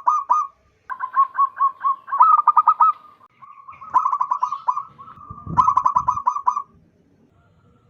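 Zebra dove (perkutut) singing: quick runs of short staccato coos, four phrases in a row, with a brief low rumble under the last one and a pause near the end.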